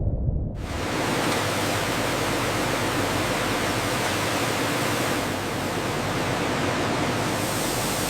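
Steady, even rushing hiss that cuts in suddenly about half a second in.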